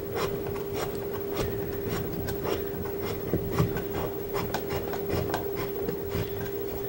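Water inlet hose coupling being screwed by hand onto the threaded inlet of a Haier HDC1804TW portable dishwasher: irregular light scraping and clicking of the fitting's threads, over a steady hum.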